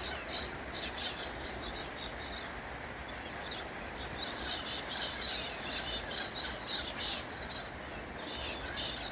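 A flock of galahs (pink and grey cockatoos) calling with many short, harsh chirps in quick, irregular succession.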